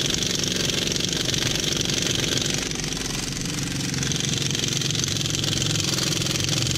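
Small pneumatic impact wrench (rattle gun) hammering steadily on a wheel nut without breaking it loose: the nut is done up too tight for this gun, rated about 120 ft-lb in reverse.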